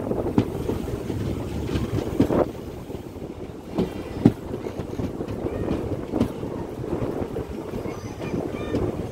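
Passenger train coach heard on board as the train pulls out of a station, with a steady rumble and rattle from the running gear. Several sharp knocks come through as the wheels pass over the track, and there is wind on the microphone.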